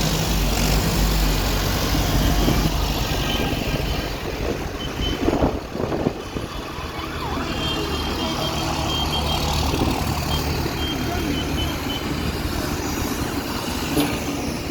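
Tractor engines running as tractors drive past in a road run, a steady low drone with short high beeping tones on and off.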